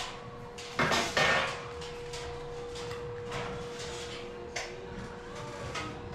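Metal framing parts clanking and scraping during ceiling framework installation, with a louder scrape about a second in, over a steady hum.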